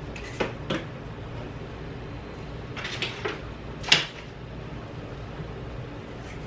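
Kitchen handling noises: a few light knocks and clinks, then one sharp clack about four seconds in, over a steady low hum.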